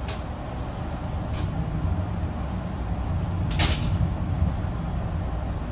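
Metro-North commuter train running along the track: a steady low rumble with a few sharp clanks and rattles, the loudest about three and a half seconds in.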